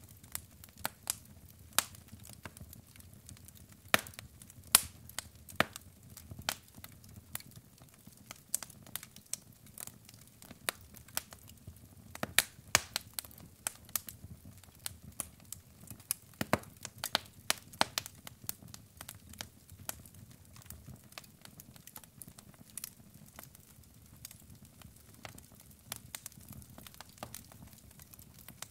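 Wood fire burning in a fireplace: logs crackling with irregular sharp pops over a low steady rumble of flame.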